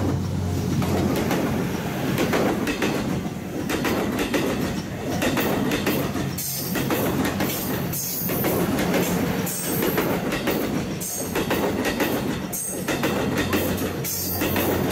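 87-series diesel-electric hybrid sleeper train running past close by: a steady engine hum under loud wheel-and-rail noise. A sharper clatter from the wheels swells about every second and a half.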